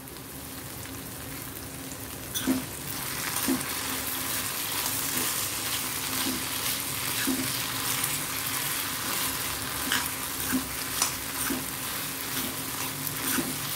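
Raw plantain cubes and curry leaves sizzling in oil in a kadai, while a metal spatula stirs them with scattered scrapes and taps against the pan. The sizzle grows louder about two and a half seconds in.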